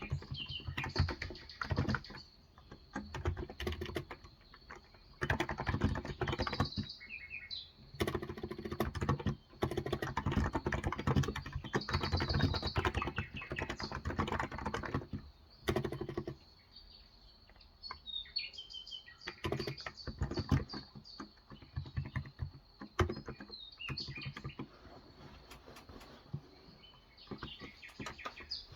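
Typing on a Cox Endeavor electrocapacitive (Topre-style) 35 g tenkeyless keyboard: fast runs of soft key clicks with short pauses between them. Birds chirp now and then in the background.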